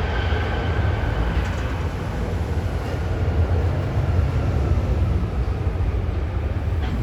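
Steady low rumble of an airliner's jet engines, with a faint high whine that fades over the first couple of seconds.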